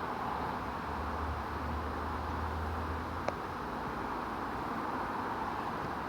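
Steady dense buzzing of a honeybee swarm in flight, tens of thousands of bees circling in the air. A single sharp click sounds about three seconds in.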